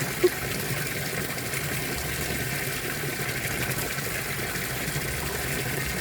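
Steady rush of running water, with a single short pop about a quarter second in.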